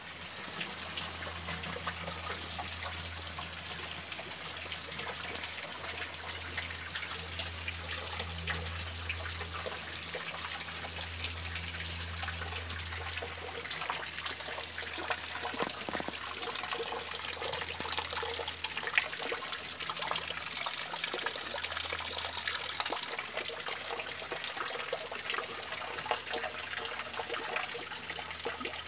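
Rain falling steadily on garden foliage and lawn, a dense hiss of many small drop ticks that grows a little heavier about halfway through. A low hum runs underneath during the first half.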